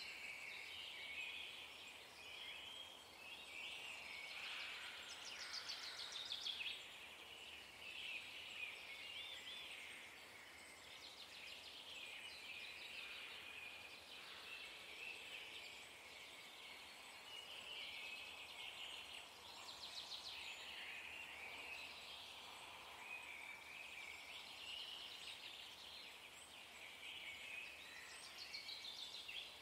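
Faint chirping and twittering of small songbirds, with a few quick trills.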